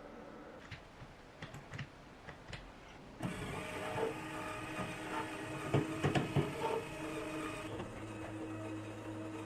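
Light scattered clicks, then about three seconds in a small motor-driven mechanism starts whirring steadily, with a cluster of sharp clicks near the middle; near the end its sound drops to a lower steady hum.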